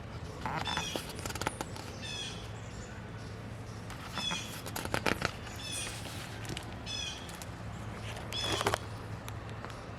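A bird calling over and over in short, high calls about once a second. Three brief rustling noises come near the start, the middle and the end.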